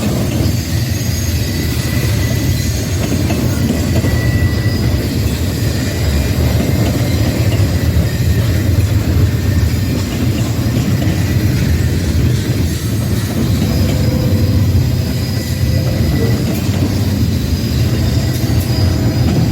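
Train rail cars rolling past with a steady heavy rumble, with faint thin wheel squeal coming and going.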